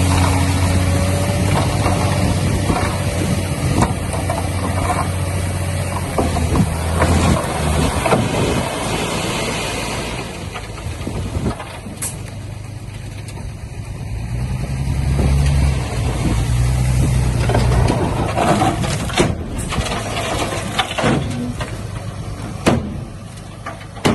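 Diesel engines of heavy construction machinery running. The low engine note eases off about a third of the way in and builds again past the middle, with scattered knocks and clanks throughout.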